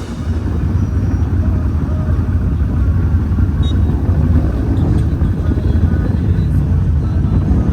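ATV or UTV engine running steadily, a dense low rumble.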